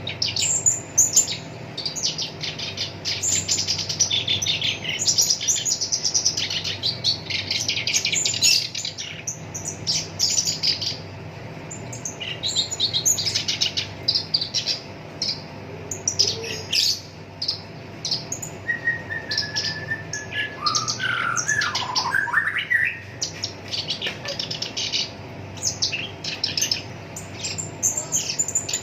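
Black-browed reed warbler singing a fast, harsh chattering song of rapid notes in quick runs. About twenty seconds in comes a lower phrase that slides up and down.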